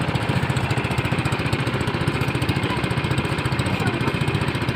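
Small motor of a pump boat running at a steady speed, with a fast, even chugging beat.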